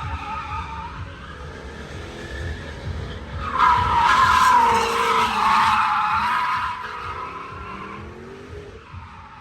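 Car tyres squealing with the engine running underneath, growing loudest a few seconds in and then fading away.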